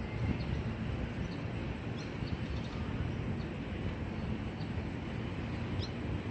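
Outdoor ambience: a steady high-pitched insect drone over a low rumble, with a few short, high bird chirps about two seconds in and again near the end.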